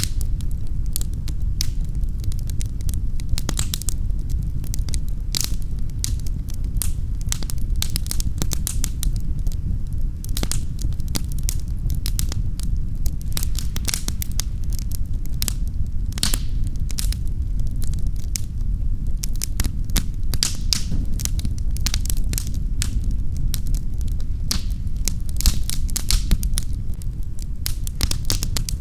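Wood fire burning in a fireplace, crackling and popping irregularly and often over a steady low rumble.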